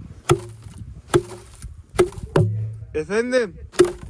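A tool chopping at the ice on frozen water to open it: about five sharp blows, roughly one every 0.8 seconds. A brief spoken word comes near the end.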